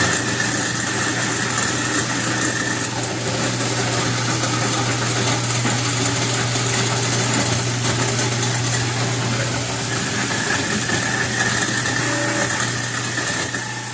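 Garbage disposal running with cold water pouring through it, grinding up a lemon and ice: a steady motor hum under a noisy rush of water and grinding.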